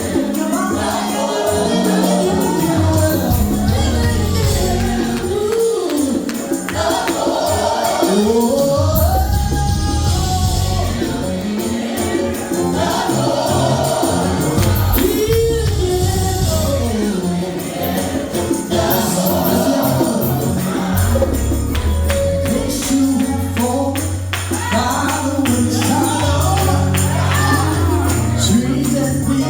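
Gospel music: singing voices gliding over a steady bass line, with dense jingling percussion throughout.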